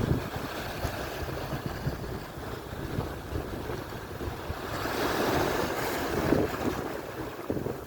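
Atlantic surf: waves breaking and washing up the shore, with one wave swelling louder from about halfway through and easing off near the end, and wind buffeting the microphone.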